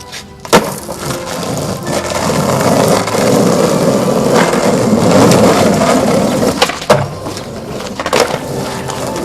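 Skateboard wheels rolling on rough pavement, with several sharp wooden clacks of the board hitting the ground, the loudest about half a second in.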